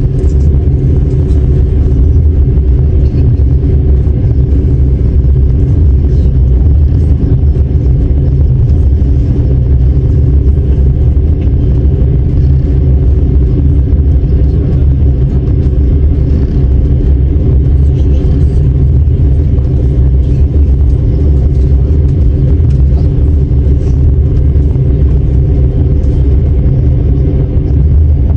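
Steady, loud low rumble of a moving passenger train heard from inside the carriage: wheels running on the rails and the car's running gear, unchanging throughout.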